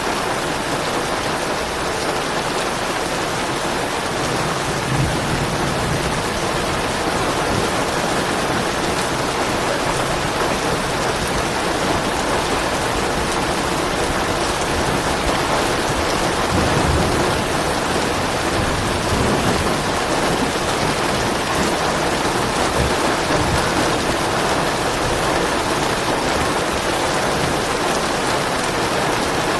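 Steady rain falling, with a few soft, low rolls of thunder rumbling under it, the strongest a little past the middle.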